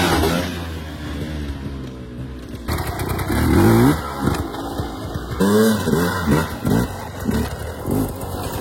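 Dirt bike engine running, then revved up and down several times from about three seconds in.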